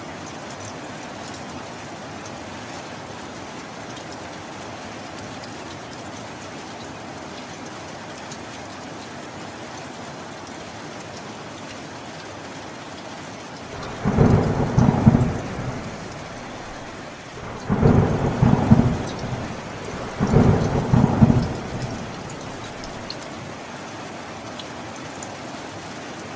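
Steady rain falling, with three short rumbles of thunder in quick succession a little past halfway, each lasting a second or two and louder than the rain.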